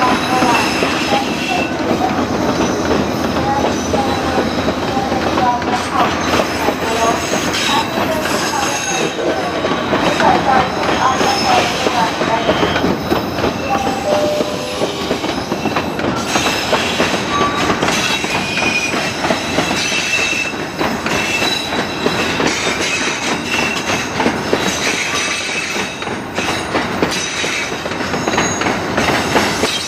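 Thai railway train running on the rails, with steady rattling and clacking and short high wheel squeals now and then.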